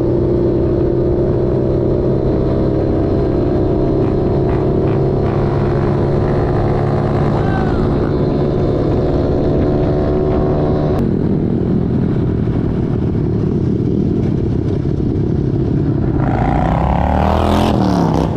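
Pit bike engine running at a steady speed on the move, with a low rumble of road and wind noise. Near the end another vehicle passes close by, its pitch dropping as it goes past.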